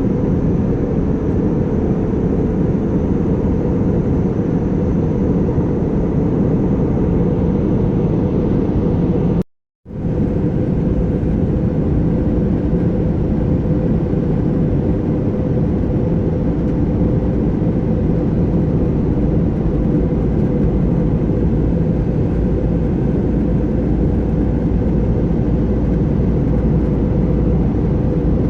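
Steady jet-airliner cabin noise in flight: a constant rush of engine and air noise with a steady hum. The sound cuts out completely for about half a second roughly ten seconds in, then resumes unchanged.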